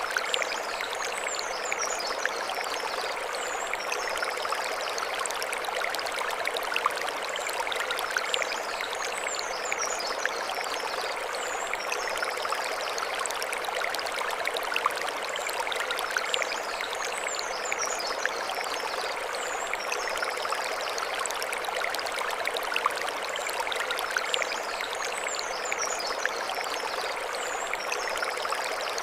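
Mountain stream running over stones, a steady rushing and splashing with small crackles. A high chirping phrase recurs about every eight seconds above the water.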